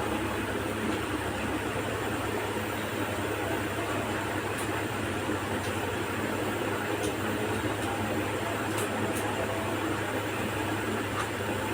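Steady low hum with an even hiss of background noise, and a few faint ticks.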